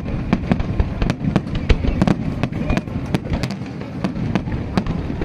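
Aerial fireworks bursting in rapid, irregular succession: several sharp cracks and bangs a second over a continuous low rumble of distant detonations.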